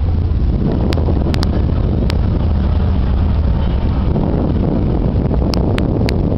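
Steady low rumble of a passing lake freighter's engine, with a few sharp clicks over it.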